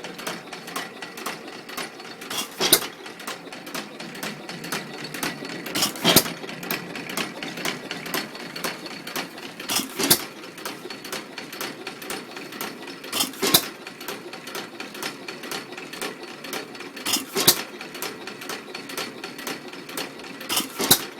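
1912 Stover Model YA (Pilter-badged) 2.5 hp vertical open-crank hit-and-miss engine running, firing once every three to four seconds and coasting between firings. A quick light ticking carries on through each coast.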